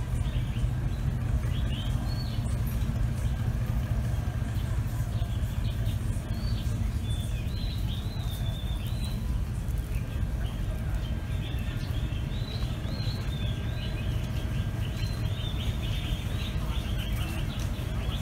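A flock of small birds chirping continuously, many short high chirps overlapping, over a steady low rumble.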